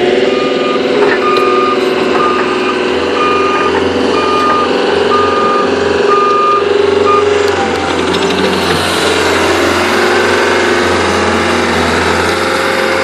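Caterpillar 287C compact track loader's diesel engine running under load while its backup alarm beeps at an even rate as it reverses. The beeping stops about seven seconds in, and the engine note then rises and falls as the machine is worked.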